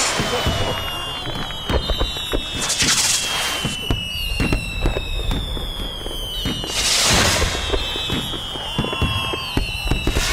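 Fireworks going off: sharp bangs and crackling, with high whistles sliding slowly down in pitch. Two louder bursts of hissing crackle come about three and seven seconds in.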